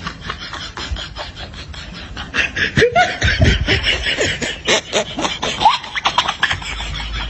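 A person laughing: a run of short, choppy snickers and giggles with pitch sliding up and down, starting a little over two seconds in and lasting about four seconds, over a steady low background noise.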